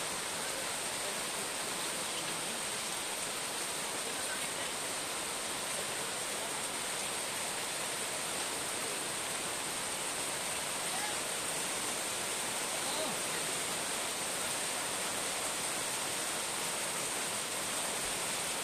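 Rain falling steadily onto a swimming pool's water and its surroundings: a constant, even hiss that does not let up.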